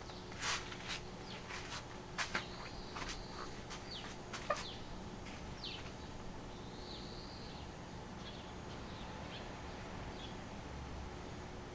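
Faint outdoor ambience with a bird calling every few seconds, each call a short rising-then-falling whistle. Several sharp clicks come in the first half.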